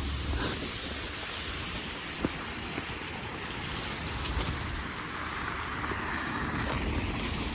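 Snowstorm wind blowing steadily, with a low rumble of wind buffeting the microphone and a few faint clicks.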